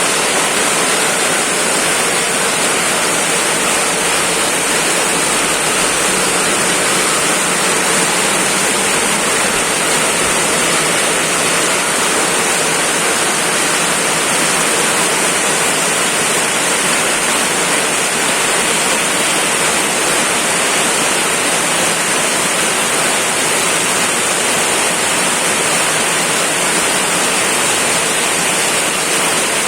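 Heavy rain pouring steadily, a loud even hiss without let-up.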